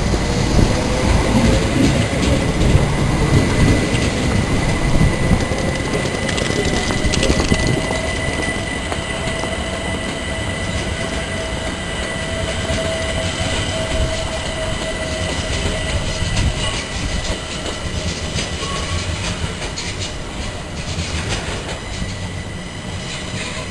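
A train running on the rails through the station, its motor whine rising in pitch over the first several seconds and then holding, while the rail noise grows quieter.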